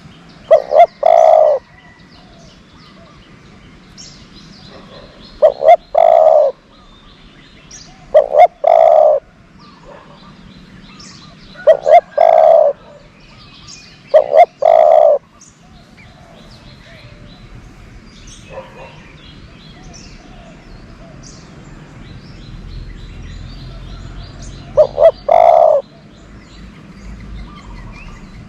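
Spotted dove decoy cooing: six calls, each two short notes followed by a longer coo, repeating every few seconds with a long pause in the middle. Faint chirps of other birds sound between the calls.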